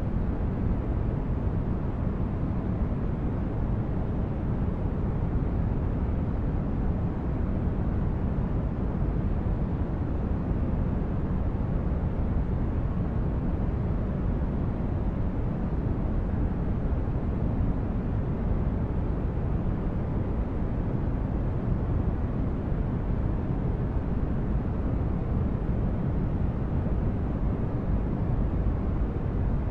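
Steady, deep rumbling noise, unchanging throughout, strongest in the low end and fading off in the highs, like a distant engine or spaceship-cabin hum: synthetic ambient noise of the brown-noise kind.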